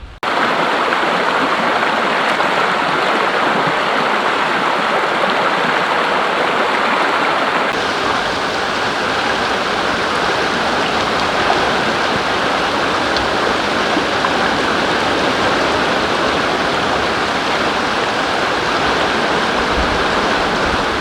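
A river rushing steadily, an even, continuous water noise. About eight seconds in its tone shifts slightly, as at a change of shot.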